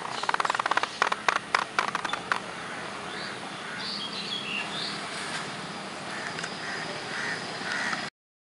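Birds calling outdoors, with scattered chirps and calls over a steady hiss. A quick run of clicks comes in the first two seconds or so, and the sound cuts off abruptly near the end.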